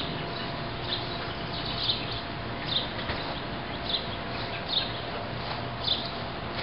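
A bird giving short, high chirps about once a second, over steady outdoor background noise with a faint constant hum.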